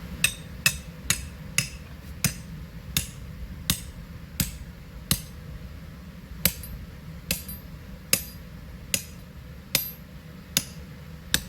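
A hammer driving a metal stake into the ground to anchor an inflatable bouncy castle. About sixteen sharp, even blows, one or two a second, with a short pause about halfway.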